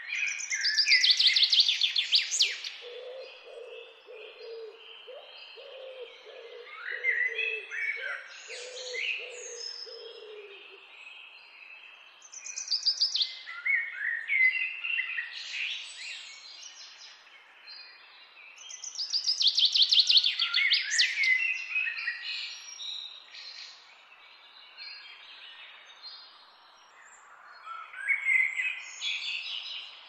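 Songbirds singing in loud bursts of rapid, trilling phrases, a new burst every five to seven seconds, over a faint steady hiss of rushing water. A lower, repeated call from another bird runs beneath them during the first third.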